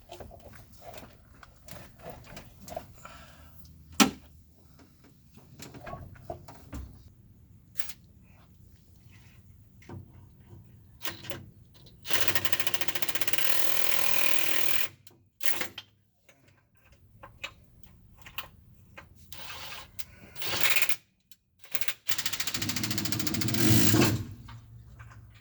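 Clinks and knocks of hand tools on metal, with one sharp knock, then a power tool running in three bursts: about three seconds halfway through, briefly a little later, and about two seconds near the end.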